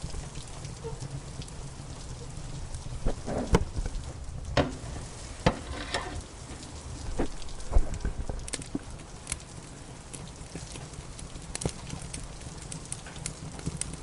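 Wood fire crackling in a fireplace, with irregular snaps and pops, a few louder ones in the middle, over a steady low rumble and steady rain.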